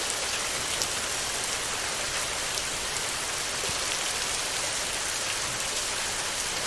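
Heavy rain falling steadily on a metal roof: a dense, even hiss with scattered ticks of single drops.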